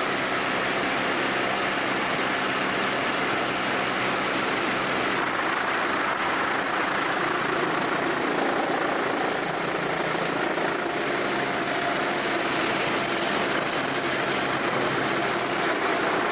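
Steady mechanical running noise: an even hiss with a low, constant hum underneath, no breaks or impacts.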